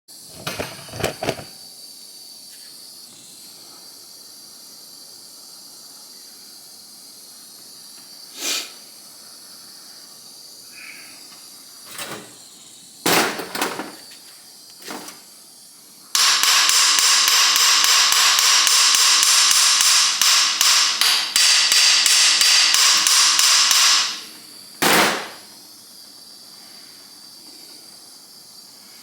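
Metal tools knocking and clattering on an engine case, then a loud steady hiss with a fast flutter for about eight seconds that stops fairly abruptly, followed by one more knock.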